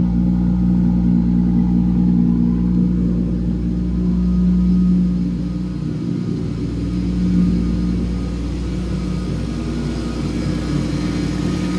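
Turbocharged Toyota 2JZ inline-six idling steadily through a straight-pipe exhaust, running smoothly and not that loud at idle on a fresh standalone-ECU tune. The level drops slightly about halfway through.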